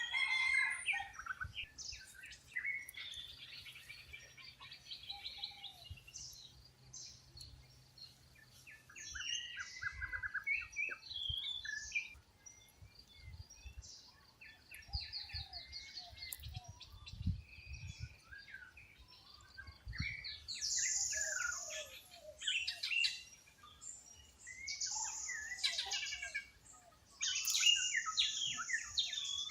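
Mixed chorus of wild birds chirping, trilling and whistling, several calls overlapping at once. Brief, louder, raspy high calls stand out three times in the second half.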